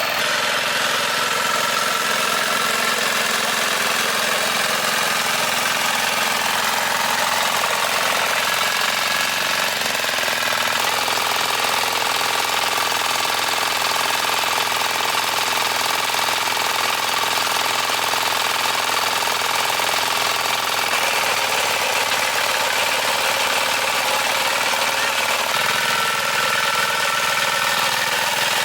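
Small farm machine's engine running steadily while digging a pond; its note changes about ten seconds in and again near the end.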